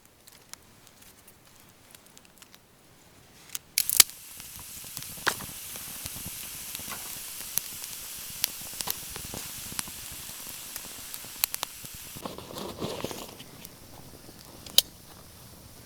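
A few sharp clicks, then a steady high hiss with scattered clicks and pops that stops abruptly about twelve seconds in, followed by a brief low rumble.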